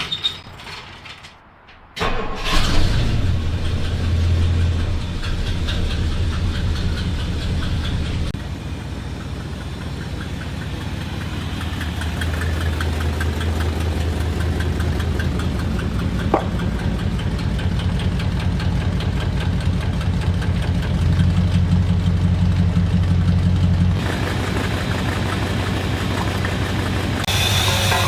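1962 Ford Galaxie's V8 engine catching suddenly about two seconds in, after a few faint clicks, then running steadily with its note shifting a little up and down.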